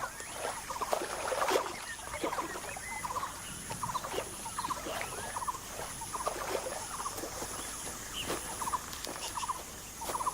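Wild outdoor ambience of short, rapid chirping animal calls repeating irregularly, over a faint, high, evenly pulsing insect-like buzz.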